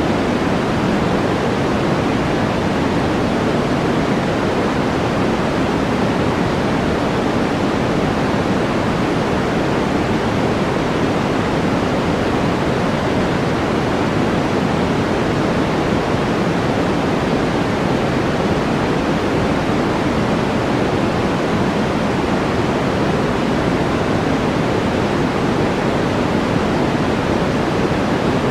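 Steady white-noise track, an even rushing hiss weighted toward the low end, with no changes or separate sounds.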